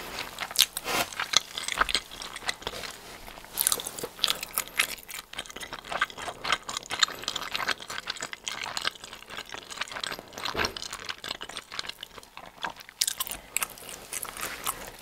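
Close-miked eating sounds: chewing a mouthful of soft bread and stringy melted cheese, with many short sticky clicks and smacks.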